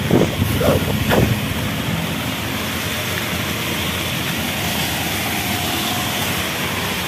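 Steady rush of heavy rain with road traffic noise on a waterlogged street.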